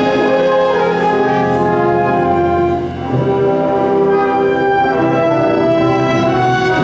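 Live ensemble music with prominent brass playing sustained chords. The sound briefly thins about three seconds in, then a new set of held chords enters.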